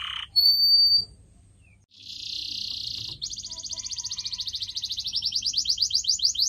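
Canary singing: a held high whistled note, a brief pause, a buzzy rattle, then a fast trill of rapidly repeated notes that rises slightly and carries on.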